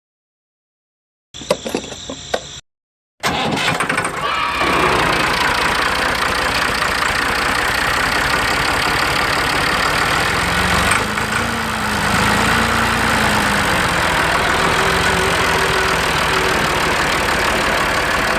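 A motor starts up about three seconds in, after a few clicks, and runs steadily, with a brief dip and rise in pitch partway through.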